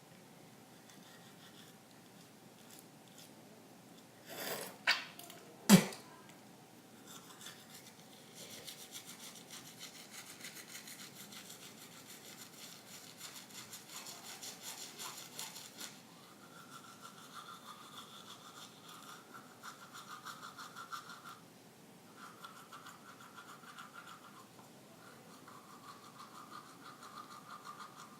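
Toothbrush scrubbing teeth in rapid back-and-forth strokes, starting about eight seconds in, with a short pause later on. Before it come two sharp knocks, about five and six seconds in.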